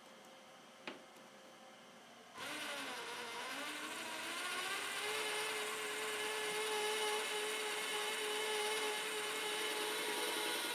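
A small electric power tool starts about two seconds in, its whine wavering in pitch as it comes up to speed and then running steadily. A single light click comes shortly before it.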